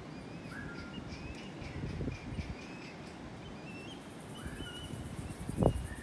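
Tropical forest birds calling with short, repeated whistled and chirping notes over a low rumbling background. An insect's high pulsing trill comes in about four seconds in. A dull thump near the end is the loudest sound.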